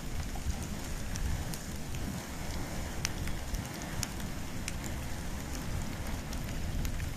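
Wood and bamboo fire burning, with scattered sharp crackles and pops over a steady low rumble.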